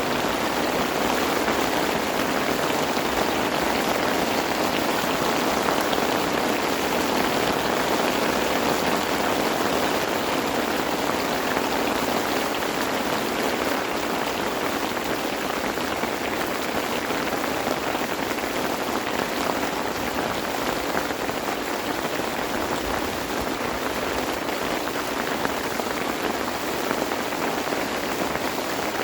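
Steady rain falling, a dense patter of many drops that keeps up without a break.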